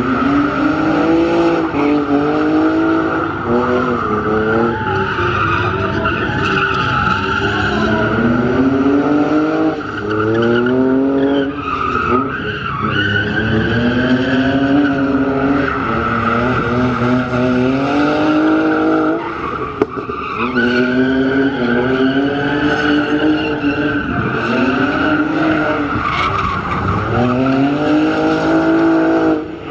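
Drift car at full drift: the engine revs climb and drop again and again, every couple of seconds, over a continuous loud tyre squeal from the sliding tyres.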